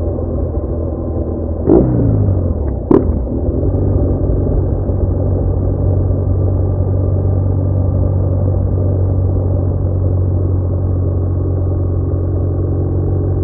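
BMW R1200R boxer-twin motorcycle engine running steadily on the move, heard through muffled onboard audio. About two seconds in there is a brief sharp peak followed by a pitch falling over about a second, then a second short peak a second later, before the engine settles back to a steady drone.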